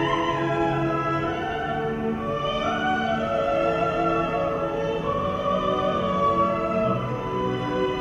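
Operatic singing in classical style over instrumental accompaniment, a melody of long held notes.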